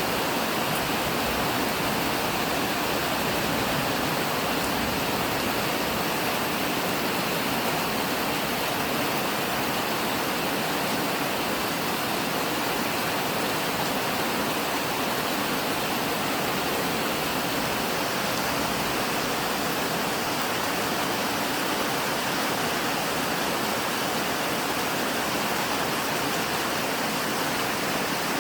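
Steady rain, falling as an even, unbroken hiss with no separate drops or drips standing out.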